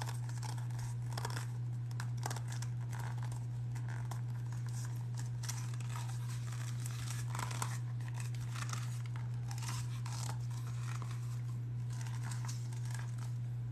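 Stiff double-sided leather being handled and bent by hand while it is shaped into a tray: irregular short rustles and scrapes, over a steady low hum.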